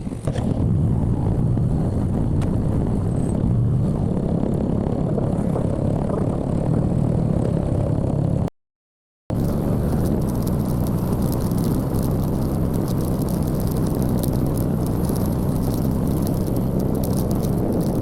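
Steady road and wind noise of a motorcycle being ridden, engine and wind on the microphone blended into one dense rush, broken by a sudden silence of under a second a little past halfway.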